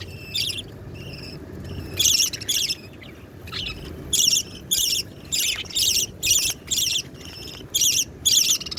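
Budgerigar chicks giving raspy, repeated begging calls while being fed: a pair about two seconds in, then a steady run of about two calls a second.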